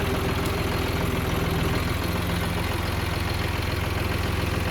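Motor vehicle engine running steadily with a low, even hum; its note shifts slightly about two seconds in.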